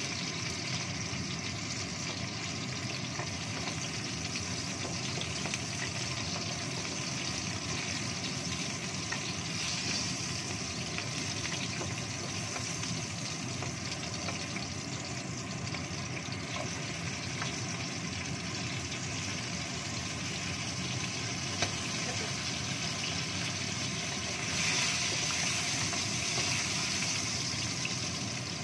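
Whole cabe rawit chillies frying in shallow oil in a wok: a steady sizzle, with a wooden spatula stirring them. The sizzle grows a little louder near the end.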